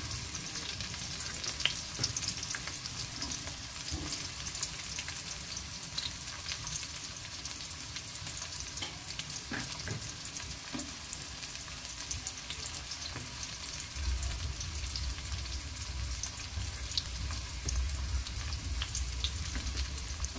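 Chopped garlic, onion, ginger and chilies sizzling in hot oil in a wok, a steady crackle of small pops. A low rumble joins in about two-thirds of the way through.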